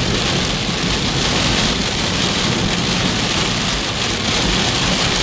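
Heavy rain falling steadily, an even downpour with no breaks.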